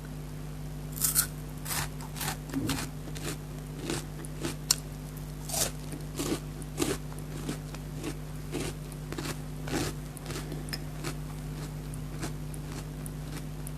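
Close-miked crunching and chewing of a Perk wafer chocolate bar coated in melted chocolate: irregular crisp crunches, thick for the first ten seconds, then thinning to a few small ones. A steady low electrical hum runs underneath.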